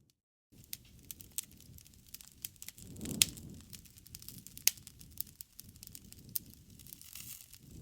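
Wood campfire crackling, with many small sharp pops over a low rustle of flames. The loudest pop comes about three seconds in, over a brief swell of low flame noise, and another sharp pop follows near the middle. A split-second gap of total silence comes at the very start.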